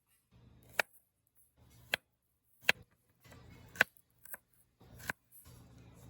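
Food being cut in about five strokes, roughly one a second; each is a short scraping rustle that ends in a sharp click.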